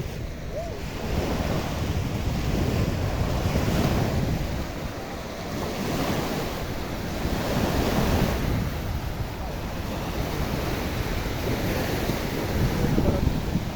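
Black Sea waves washing onto the beach, surging and easing every few seconds, with wind buffeting the microphone in a low rumble.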